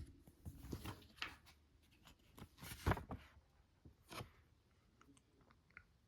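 Packaging being handled during an unboxing: a series of short rustles and scrapes, loudest about three seconds in, with a smaller one just after four seconds.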